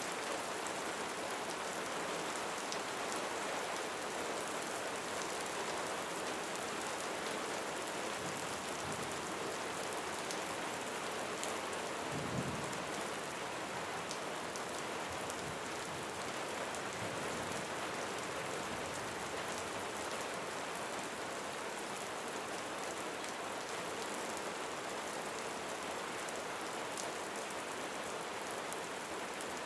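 Steady rain falling on a roof, with individual drops ticking through the hiss. About twelve seconds in, there is one short, low thump.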